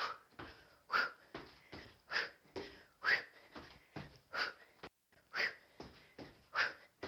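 Hard, rhythmic breathing during a kickboxing drill: a sharp, forceful exhale about once a second, with softer breaths in between.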